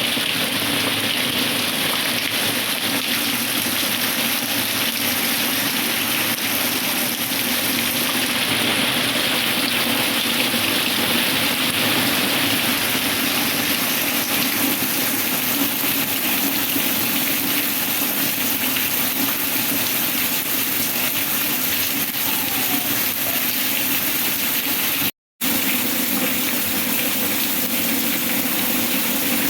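Heavy rain falling steadily, an unbroken wash of noise that cuts out for a moment about 25 seconds in.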